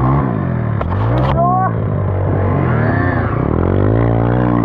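Dirt bike engine revving up and down as the bike is ridden, its pitch climbing and dropping several times. There is a short clatter about a second in.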